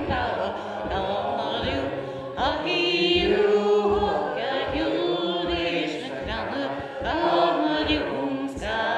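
A group singing a milling song together, with woven wool cloth being pounded on a table in a steady beat of about two thumps a second as it is shrunk.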